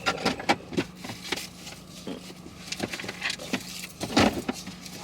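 Irregular small clicks, knocks and rustles of things being handled inside a car, with the loudest knock about four seconds in, over a faint steady low hum.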